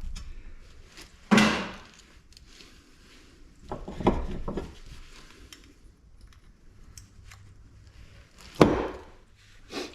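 Three separate clunks from parts of a dismantled light fixture being knocked and handled, about a second in, around four seconds in and near the end.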